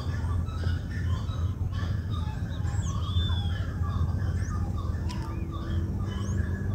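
Many birds chirping and calling, short scattered chirps and whistles, some sliding in pitch, over a steady low background hum. A steadier low hum comes in near the end.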